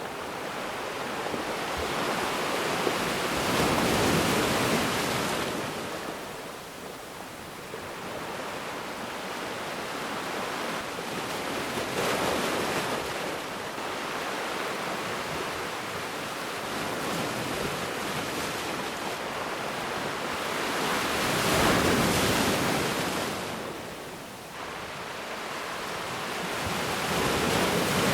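Ocean surf: waves breaking and washing in a continuous hiss that swells and ebbs, with louder surges about every eight to ten seconds.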